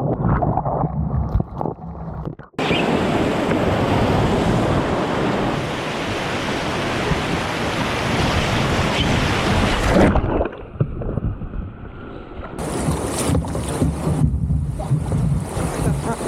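Loud, steady rush of whitewater in a rapid. It cuts out abruptly about two and a half seconds in, then goes muffled for a couple of seconds about ten seconds in before returning.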